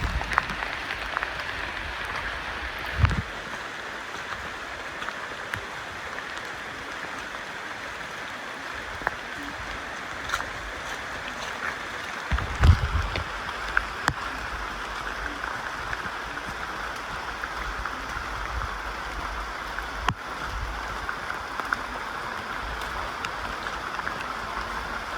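Steady rainforest background noise, a hiss without a clear pitch, with two short low thumps about 3 and 12 seconds in.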